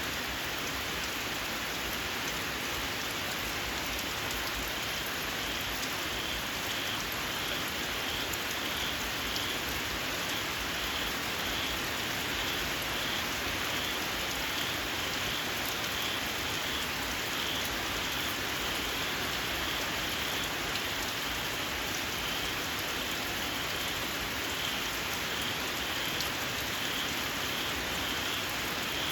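Steady rain, with small frogs calling in the rain: a regular series of short, high-pitched chirps that starts about six seconds in and keeps repeating.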